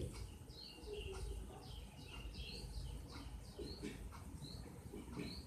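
Birds chirping: a steady run of short, high chirps, about three a second, over a low rumble.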